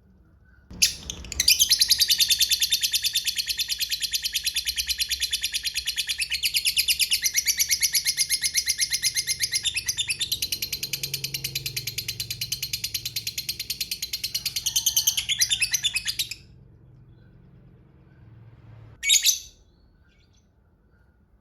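Lovebird giving a long 'ngekek' chatter: a rapid, unbroken run of shrill high-pitched notes that lasts about fifteen seconds and then stops abruptly. One short shrill call follows a few seconds later.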